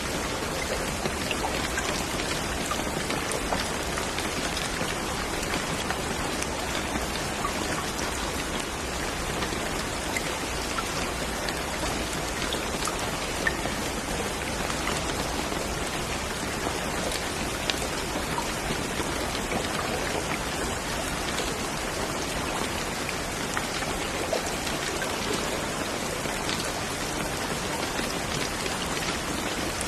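Steady rain falling, a dense even hiss of drops with many small separate drop hits and an occasional louder one.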